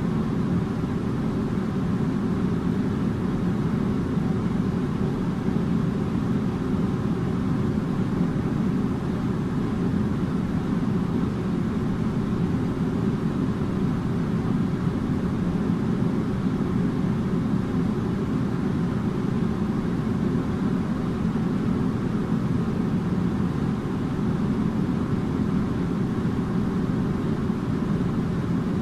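Air conditioner running: a steady, unchanging low rushing hum, with a faint steady tone above it.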